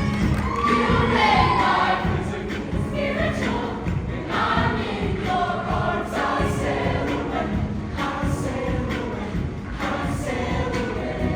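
Show choir singing together with live band accompaniment and percussive hits.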